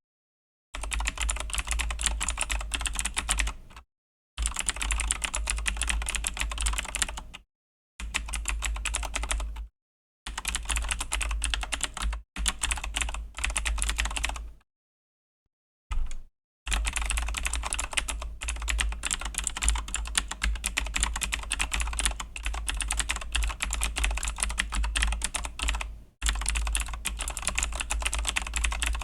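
Typing on a Razer BlackWidow V3 mechanical keyboard with Razer Green clicky switches: fast runs of key clicks lasting a few seconds each, broken by brief pauses, the longest about two seconds near the middle.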